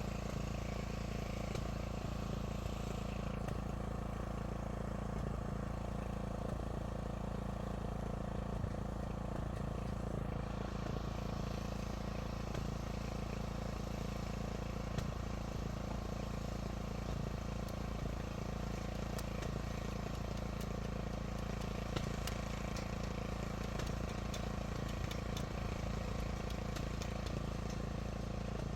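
An engine running steadily: an even low rumble with a few faint clicks over it.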